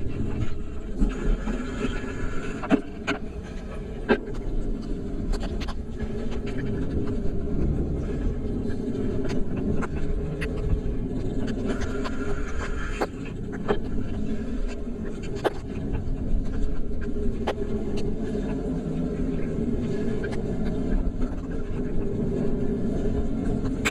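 Steady low rumble of a vehicle travelling along a road in light rain, with scattered sharp ticks of raindrops striking the camera's rain cover.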